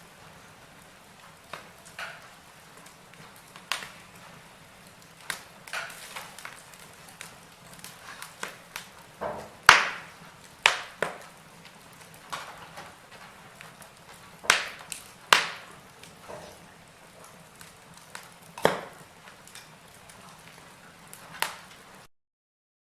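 Wood logs burning in a fireplace, crackling with irregular sharp pops of varying loudness over a faint hiss, the loudest pops about ten and fifteen seconds in. The sound cuts off suddenly near the end.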